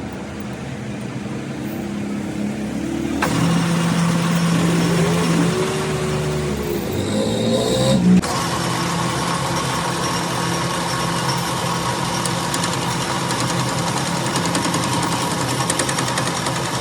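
A car engine running steadily, with an abrupt change in the sound about eight seconds in.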